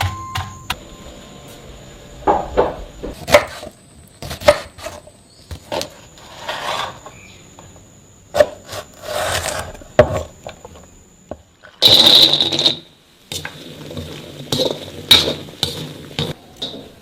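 Kitchen work: irregular knocks and scraping of utensils against wood and cookware, with a louder scraping burst a little past the middle.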